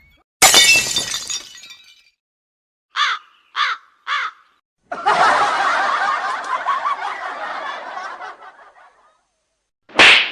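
A string of separate comedy sound effects: a sudden breaking crash that dies away over about a second and a half, three short pitched calls in quick succession, then about four seconds of group laughter fading out, and a short sharp burst near the end.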